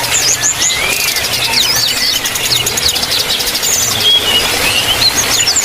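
Many small aviary birds chirping at once: a busy stream of short, high, quick calls overlapping one another.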